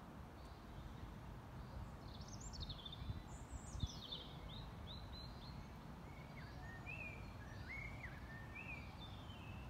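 A songbird singing a varied run of short chirps and whistles, starting about two seconds in and going on nearly to the end, over a low steady outdoor rumble.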